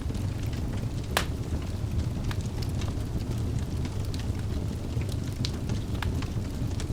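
Wood fire burning in a fireplace: a steady low rumble of flames with scattered crackles and pops, one sharp pop about a second in.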